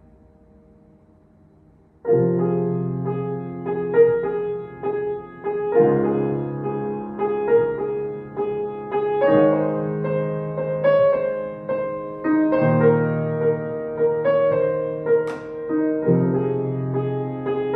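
Piano music: after a faint held tail of sound, a new piano piece starts about two seconds in, with low bass notes struck every few seconds under chords and a melody.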